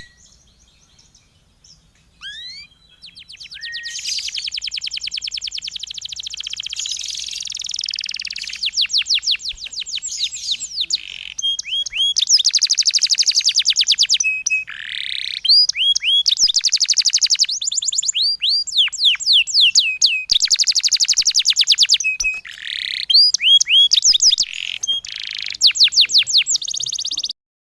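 Recorded songbird song: a few single high notes, then long, very fast trills of repeated sweeping notes in bursts, a rapid-fire 'tembakan' style song. It cuts off suddenly just before the end.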